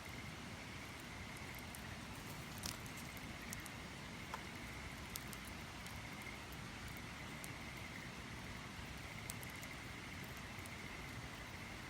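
Campfire burning, with a faint hiss and a few sharp crackles and pops scattered a second or so apart, over a steady high-pitched tone.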